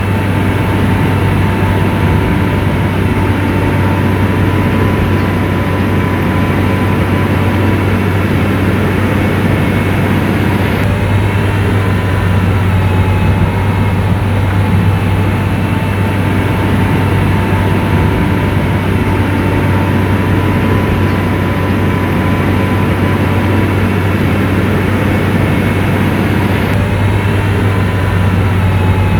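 Motor grader's diesel engine running steadily under load, a constant deep hum with a faint higher whine over it.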